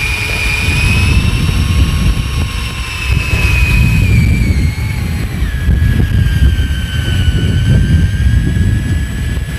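Electric fishing reel motor winding in line with a hooked cuttlefish: a high steady whine that sags slowly in pitch and steps lower about halfway through. Wind rumbles on the microphone underneath.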